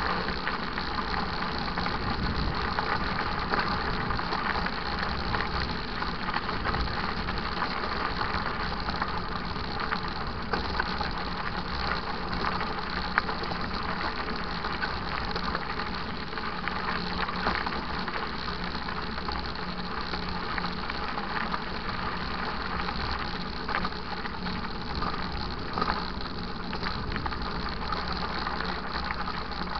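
Mountain bike ridden along a dirt trail: steady tyre noise with the bike rattling and many small clicks and knocks.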